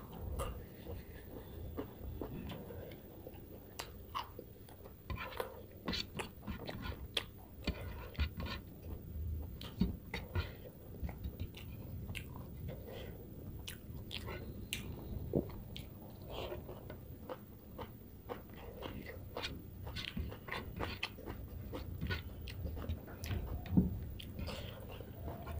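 Close-up eating sounds: a person chewing and smacking mouthfuls of rice and fish curry eaten by hand, with irregular crunching from crisp fried kala chana kachri.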